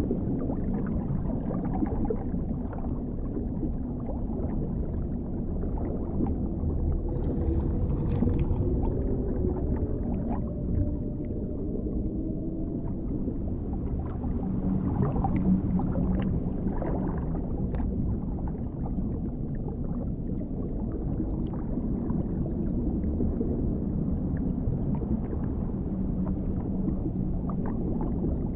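Dark underwater ambience: a steady deep rumble with muffled gurgling. Faint drawn-out tonal moans slowly rise in pitch from about six seconds in.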